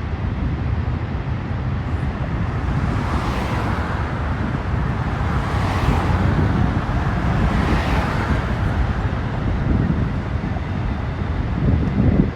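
Intermodal freight train cars rolling past: a steady low rumble of steel wheels on rail, with a few hissing swells every couple of seconds.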